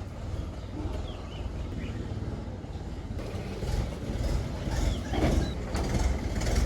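Tractor engine running steadily, with louder surges of noise in the second half.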